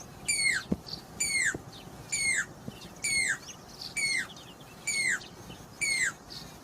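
A Jacobin cuckoo (pied crested cuckoo) calling: a loud, metallic whistled note that falls in pitch, repeated evenly about once a second, seven times.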